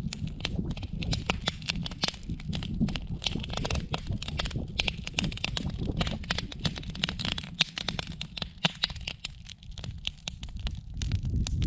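Wood campfire crackling: a dense, irregular stream of sharp snaps and pops over a steady low rumble.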